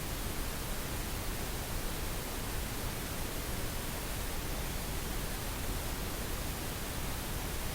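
Synthetic pink noise: a steady, even hiss, fuller in the low end than white noise.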